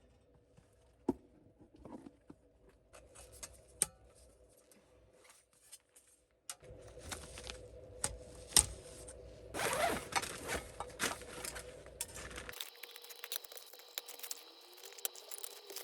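Small handling sounds of camping gear: scattered clicks, scrapes and rustles, in several short cut-together clips.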